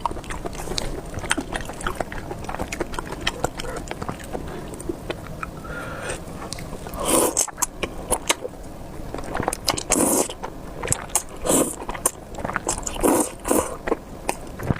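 Close-miked eating of spicy beef noodles: wet chewing and mouth clicks throughout, with several louder bursts of slurping and biting in the second half.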